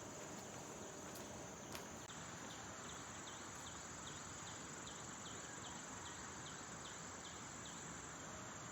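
Insects chirping: a steady high-pitched drone, joined about two seconds in by short chirps repeating about three times a second. A single faint click just before the chirps start.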